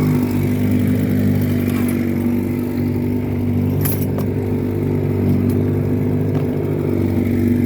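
1954 Johnson QD-15 10 hp two-cylinder two-stroke outboard running steadily at speed, pushing the boat along.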